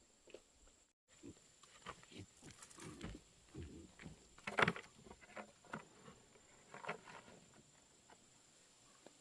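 A small pig grunting now and then among short, irregular knocks and rustles, loudest about four and a half seconds in.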